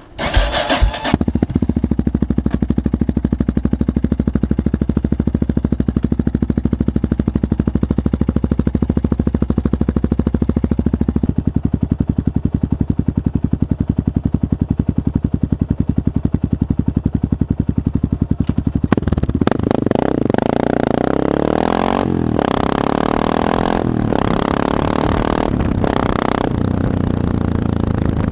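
Yamaha XT600E single-cylinder four-stroke engine running through a full Arrow Dakar replica exhaust with the dB killer removed. It starts about a second in and idles with a steady, fast pulse. From about 19 seconds in it is revved again and again.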